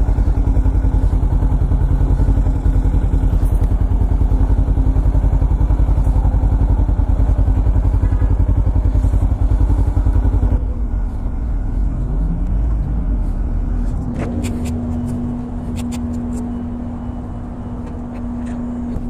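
Motorcycle engine running with a rapid, even pulse. About ten seconds in the pulse stops and the sound thins out; a brief rising whine follows, then a steady hum with a few sharp clicks.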